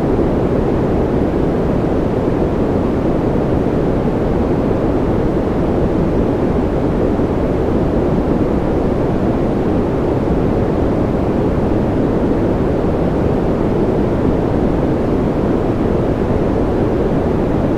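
Steady synthetic noise from a white-noise sleep track: an even, unbroken rush with most of its weight in the low pitches and little treble, so it sounds deeper than pure white noise.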